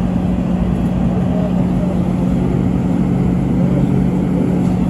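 Steady hum and rumble inside a light-rail train car, with a constant low droning tone over the noise of the car's motors and equipment.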